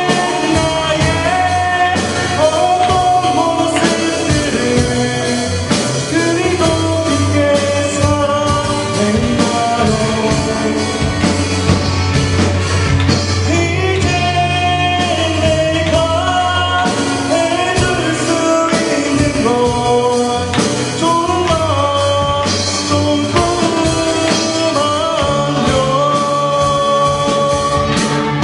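Live band playing a pop-rock song, with drum kit, bass and a bending lead melody carried over it.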